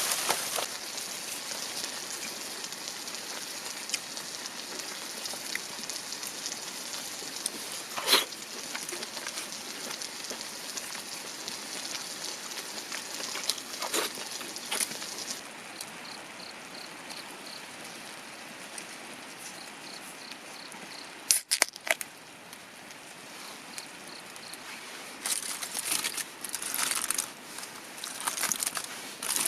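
Steady rushing of a shallow stream, with a few sharp cracks and some crinkling near the end.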